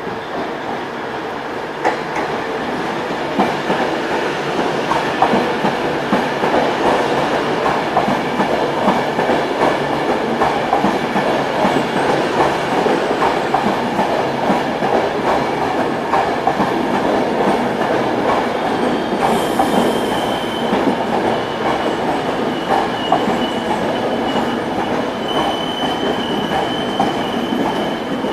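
Class 390 Pendolino electric multiple unit running into the station, a continuous rumble of wheels on rail with many quick clicks over the rail joints. A thin high squeal comes in about two-thirds of the way through as it slows to arrive.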